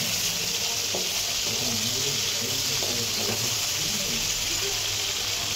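Prawns shallow-frying in hot mustard oil in a kadai, sizzling steadily as they are turned with a metal spatula.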